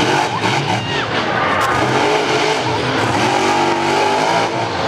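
Monster truck engine revving hard, its pitch rising and falling again and again at high volume.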